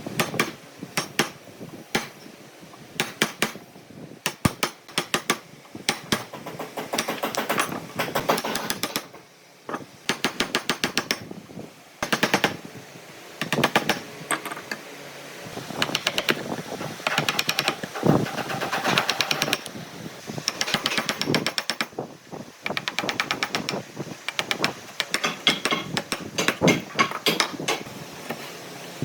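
Woodworking hand-tool work on wood: runs of sharp, fast taps and knocks with short pauses between them.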